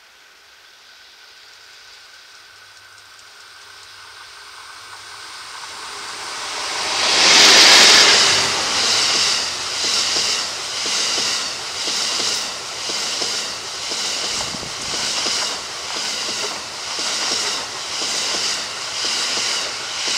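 EF81 electric locomotive hauling E26 sleeper coaches approaches and passes close by. The rail noise builds steadily, is loudest as the locomotive goes by about seven seconds in, then the coaches roll past with a rhythmic clatter of wheels about once a second, dropping away at the end as the last car clears.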